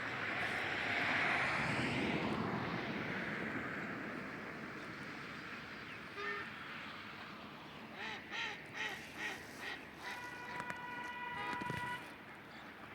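Wild ducks or geese calling: a quick run of about five honking calls over a rushing wind-like noise, followed by a steady held tone. The rushing noise is loudest at the start.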